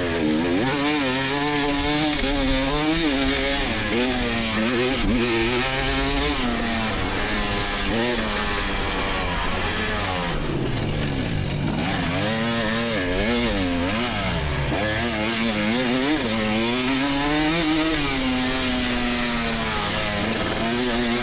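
2024 GasGas EX300 300cc two-stroke single-cylinder dirt bike engine revving under throttle, its pitch climbing and dropping over and over as the rider works the throttle and gears through the course.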